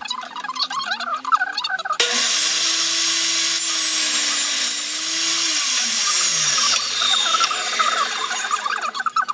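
Table saw switched on with a sudden loud rushing whine and a steady motor hum, then switched off: the hum falls in pitch as the blade coasts to a stop.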